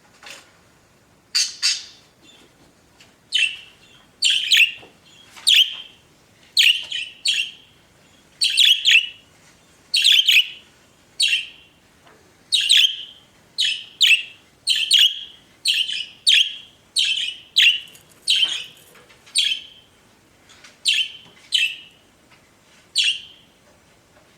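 Pet budgerigars chirping: short, sharp calls repeated over and over at a little more than one a second.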